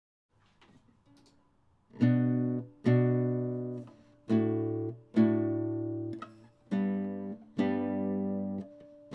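Acoustic guitar strumming chords as a song intro: six strokes in pairs, each chord left to ring and fade, after a couple of seconds of faint, soft notes.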